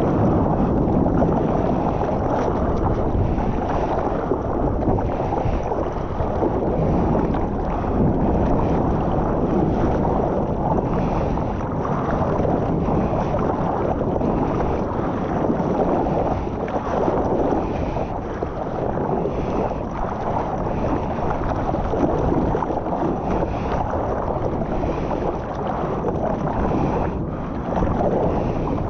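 Steady, muffled rush of ocean water and wind noise on the microphone in the surf, with no distinct splashes or breaking-wave impacts standing out.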